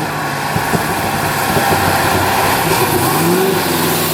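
Car engine running at a steady loud level, its pitch rising and falling slightly a couple of times as it is revved lightly.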